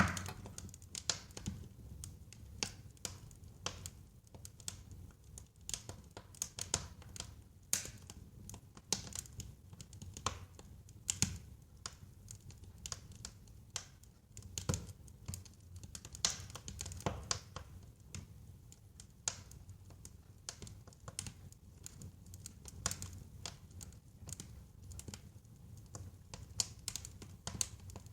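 Wood fire burning in a fireplace: irregular sharp crackles and pops, some louder than others, over a low steady rumble of the flames.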